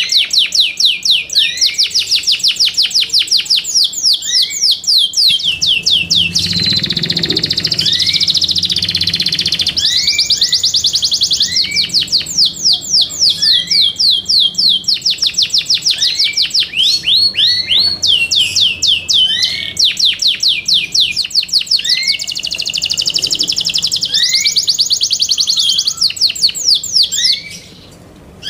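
Yorkshire canary singing a long song of fast trilled rolls, high repeated notes at several per second, broken by a held whistled note a few seconds in. A faint low hum sits under the song for a few seconds around that held note.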